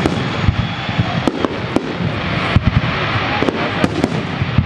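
Fireworks display: a continuous crackling haze with sharp bangs of bursting shells going off irregularly, about two a second.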